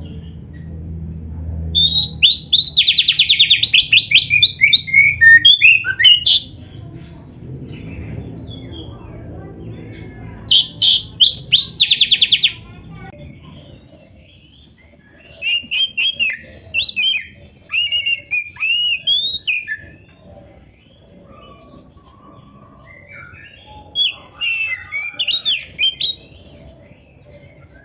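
Oriental magpie-robin (kacer) singing in varied phrases: loud, rapid trills in two long bursts in the first half, then softer, broken whistled phrases.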